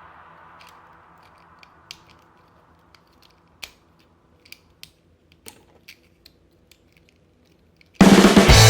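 Plastic joints and parts of a Transformers toy figure clicking as it is handled: about a dozen sharp, irregular clicks, the loudest a little under four seconds in. Loud rock music cuts in suddenly near the end.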